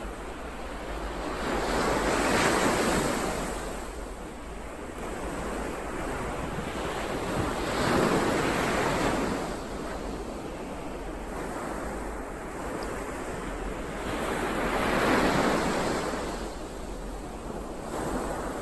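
Ocean waves breaking and washing in on the shore, three swells of surf about six seconds apart, with a softer hiss of water between them.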